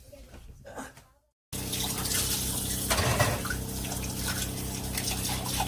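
Water running steadily from a hose into a bucket, over a steady low hum; it starts suddenly about a second and a half in.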